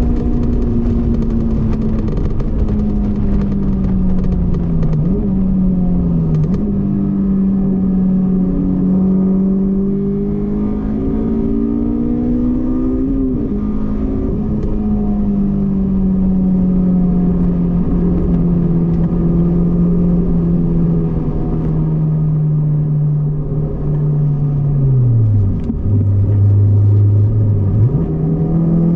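Honda S2000's four-cylinder engine running on track, its pitch rising and falling through gear changes as the car accelerates and slows. Near the end the engine note drops low for a couple of seconds, then climbs again.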